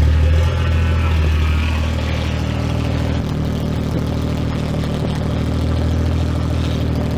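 BMW N55 turbocharged inline-six idling steadily on its first run after a rebuild, warming up with no knocking.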